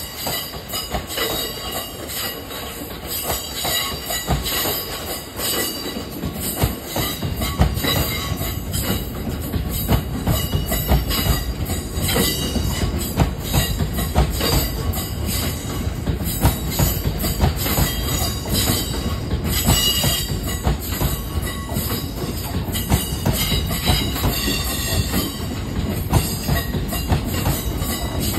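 Freight train of bogie tank wagons rolling slowly past, wheels clacking and knocking over rail joints and pointwork, with a high squeal from the wheels on the curve. A low rumble grows louder about six seconds in.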